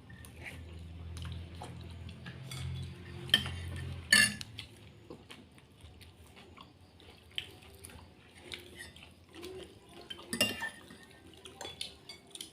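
Cutlery clinking against a bowl during a noodle meal: scattered sharp clinks, the loudest about three and four seconds in and again about ten seconds in. A low hum runs under the first four seconds.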